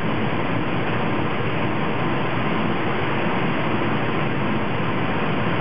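Steady, even rushing noise with no distinct clicks or changes.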